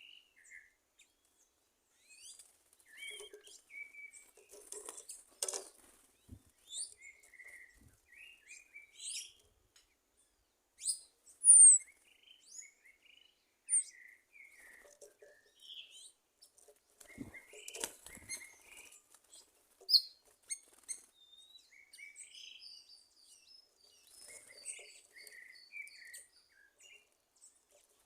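Several wild birds chirping and calling in short, scattered notes, with one loud high whistle that falls in pitch near the middle and a quick run of short high notes later on. Two brief rustling noises stand out from the calls.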